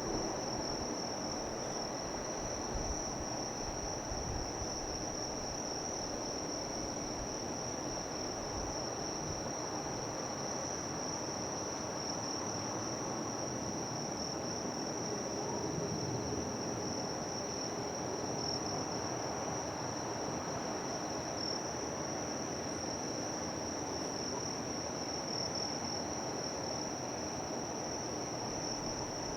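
Insects trilling: one high, unbroken note with a slight flutter, over a steady low background rumble.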